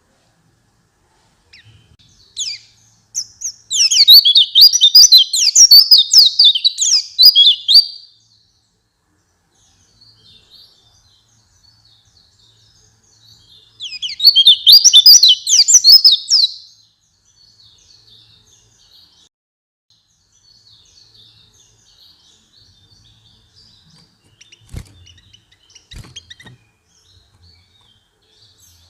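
White-eye (pleci) singing: two loud bursts of rapid, high twittering song, the first about five seconds long and the second about three, with faint chirps between them and two short clicks near the end.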